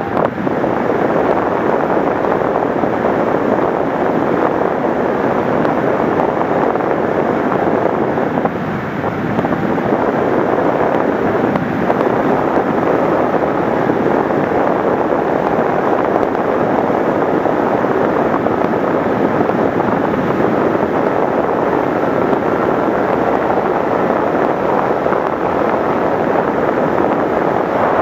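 Steady rush of wind across the microphone, with a faint thin whine underneath and a short dip about eight seconds in.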